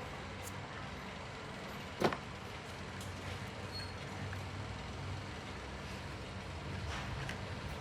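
Steady low background rumble, with a single sharp knock about two seconds in.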